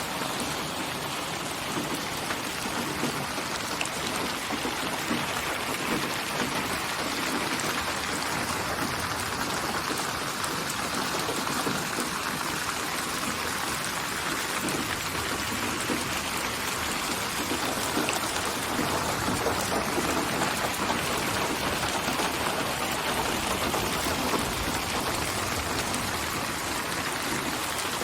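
Steady rainfall, a dense even patter of raindrops on a surface.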